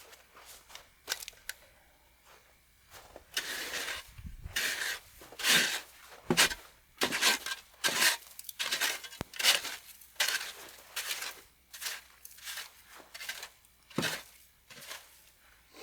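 Footsteps crunching through snow at a steady walking pace, about one step a second, from about three seconds in, with a few sharp clicks and knocks.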